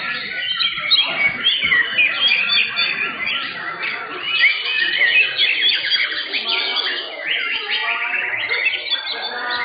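Many caged white-rumped shamas singing at once, a dense chorus of fast whistles, trills and chirps from birds competing in a song contest.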